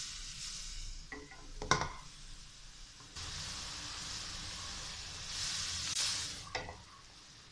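Sliced onions and tomatoes with spices sizzling in a metal kadhai while a wooden spatula stirs them. A few spatula scrapes come in the first two seconds and again near the end, with a steady sizzle between.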